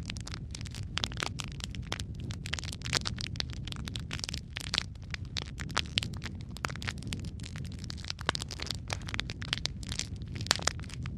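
Wood fire in a fireplace, burning steadily with a low rumble and dense, irregular crackling and popping of the logs.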